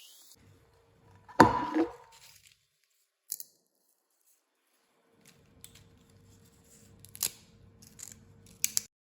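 Handling noises: a loud clatter with a brief ring about a second and a half in, then scattered sharp clicks, the strongest pair near the end, over a faint steady hum.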